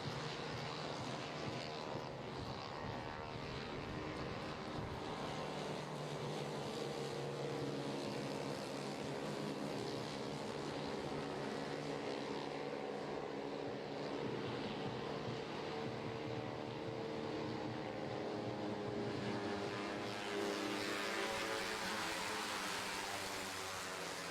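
Several 160cc racing scooter engines running together, their pitches rising and falling as they rev. A rushing hiss builds up about twenty seconds in.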